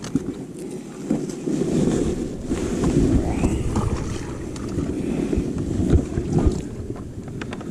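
Wind rumbling on the microphone out on a kayak, with a few light knocks.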